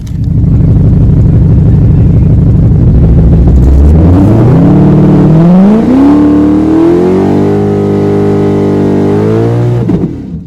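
Drag-racing car's engine at full throttle, very loud. It runs as a low, heavy rumble for about four seconds, then its pitch climbs in two steps and holds high until it cuts off near the end.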